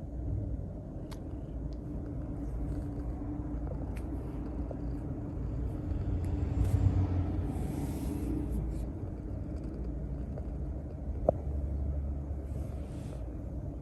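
A Maine Coon cat purring steadily, a low continuous rumble close to the microphone, with a few faint clicks and a short soft rustle about halfway through.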